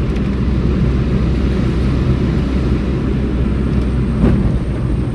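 Car driving along a road, heard from inside the cabin: a steady low engine and road drone.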